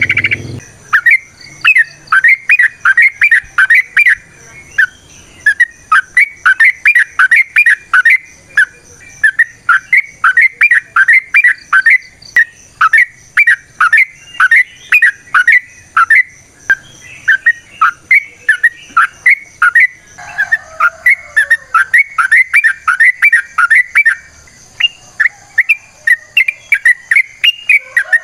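Yellow-vented bulbul (trucukan) singing: long phrases of quick, sharp, bubbling notes repeated in rapid runs, with short pauses between phrases.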